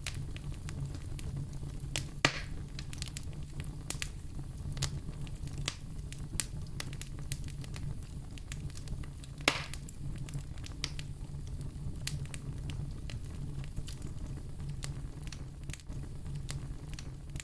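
Wood fire crackling over a steady low rumble: a stream of small snaps, with two louder pops, about two seconds in and again just past the middle.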